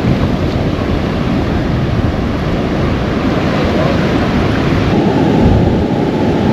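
Surf washing on the shore mixed with wind buffeting the microphone, a steady loud rush.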